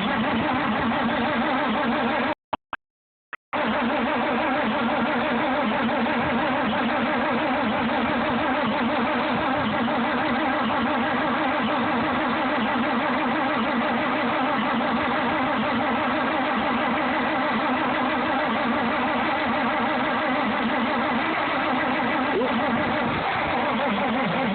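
A 1960 Farmall 460 tractor's six-cylinder engine running steadily with the choke on, just after catching from a hard cold start. It had been flooded. The sound drops out completely for about a second early on.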